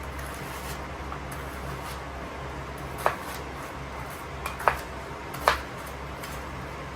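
Kitchenware being handled: three sharp clinks about a second apart, a little after the middle, over a steady background hum.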